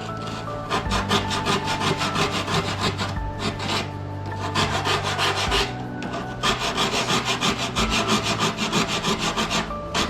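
A rasp file scraping back and forth over a deer head taxidermy form, shaping its surface, in quick runs of about five strokes a second broken by a few short pauses.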